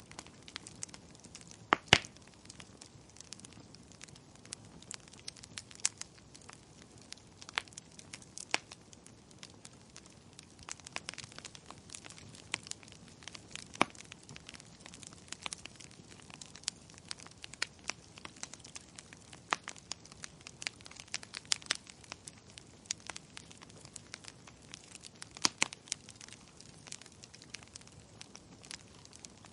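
Wood fire in a fireplace crackling: irregular sharp pops and snaps from burning logs, several a second, over a faint hiss, with a few louder pops now and then.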